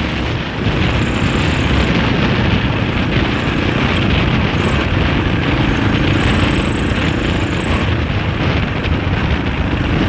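Husaberg FE 650 single-cylinder four-stroke dirt bike engine running under way, its note swelling and easing with the throttle, mixed with heavy wind rush on the microphone.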